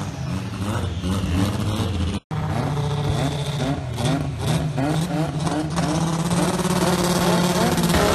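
Garrett-turbocharged VW Gol GTI 16V engine running at low revs as the car sits at the start line, with a brief dropout about two seconds in. About halfway through it gives a run of quick throttle blips, each a short rise in pitch, before settling to a steady idle.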